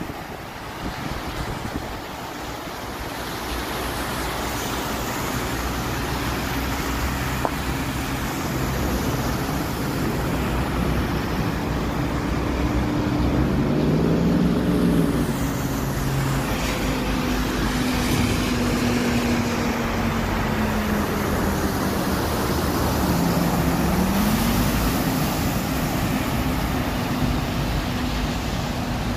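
Steady rushing road-vehicle noise, with an engine's hum that rises and falls in pitch about halfway through and again near the end.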